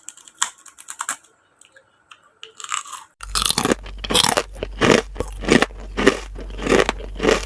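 Close-miked chewing of crunchy food, ASMR mukbang style: a few soft mouth clicks at first, then from about three seconds in a steady run of crunches, roughly two to three a second.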